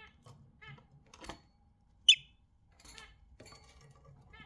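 Budgerigars chattering: short warbling chirps, with one loud sharp call about two seconds in and a couple of clicks.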